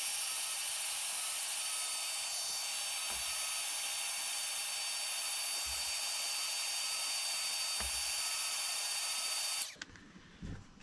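Electric heat gun running steadily, a fan hiss with a high whine, shrinking heat-shrink tubing over wire joints. It switches off near the end.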